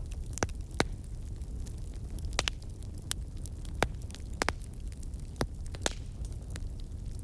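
Fireplace fire crackling: irregular sharp pops and snaps, about a dozen, over a steady low rumble of the burning fire.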